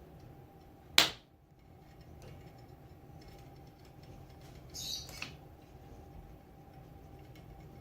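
Manual caulk gun squeezed to run construction adhesive into a drywall crack: one sharp click about a second in, and a short hissing squirt with a small click about five seconds in.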